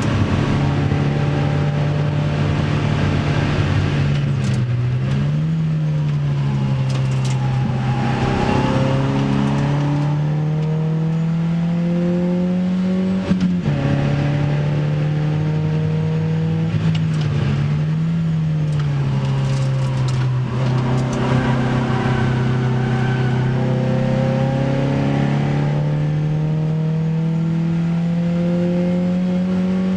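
Opel Speedster's 2.2-litre four-cylinder engine pulling hard on a circuit lap, heard from inside the cabin. Its pitch sags and climbs with the throttle through the corners and rises steadily near the end as the car accelerates. A single sharp knock comes about 13 seconds in.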